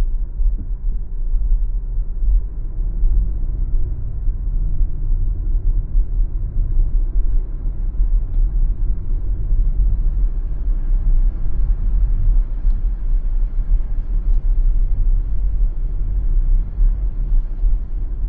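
Car driving on a city street: a steady low rumble of tyre, road and engine noise.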